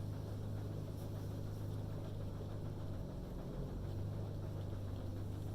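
Steady low hum of a car's engine running, heard from inside the cabin.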